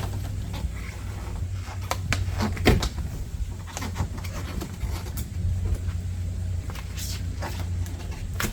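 Scattered clicks and knocks of a plastic in-channel window rain guard being pushed and worked into a car door's window channel, over a steady low hum.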